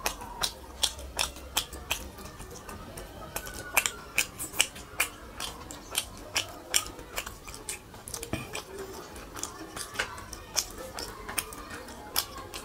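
Close-miked eating sounds: wet chewing and lip-smacking of rice and curry, a string of sharp irregular clicks, a few a second.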